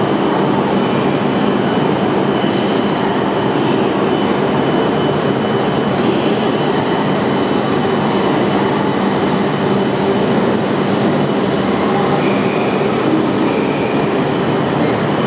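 E6 series Komachi shinkansen drawing slowly away from the E5 Hayabusa after uncoupling: a steady, loud running hum from the trains' electrical equipment, with a faint high whine on top.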